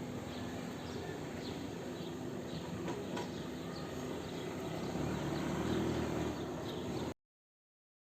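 Outdoor background noise: a steady low hum with faint short chirps, a low rumble swelling about five seconds in, then the sound cuts off abruptly about a second before the end.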